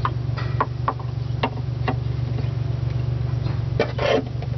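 A car engine idling steadily in the background, with a scattering of sharp clicks and taps over it.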